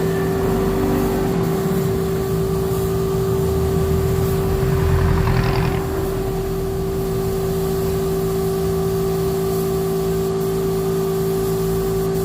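A motor running steadily with a constant hum, and a brief louder rush about five seconds in.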